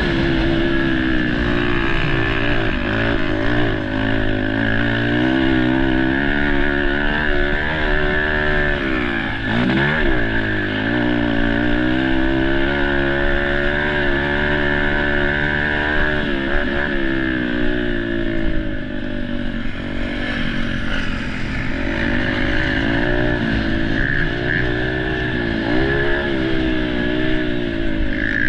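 Dirt bike engine being ridden, its pitch climbing and dropping over and over as the throttle opens and closes through the track's turns and jumps.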